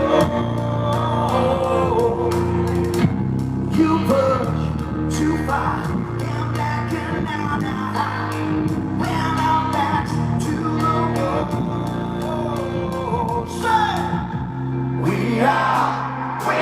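Live blues-rock band playing: drums, bass and electric guitars, with a wavering lead vocal line over them.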